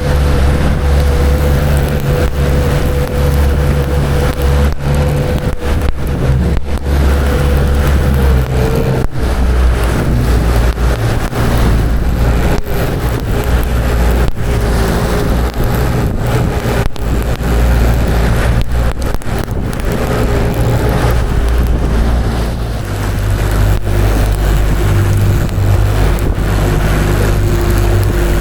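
A motorboat's engine running steadily, its tone dropping slightly about eight seconds in and shifting again later, over a constant rush of wind and water.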